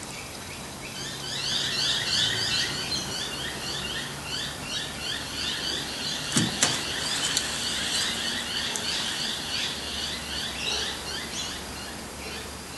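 Small birds chirping busily, a rapid run of short falling chirps that starts about a second in, with a few sharp clicks a little past halfway.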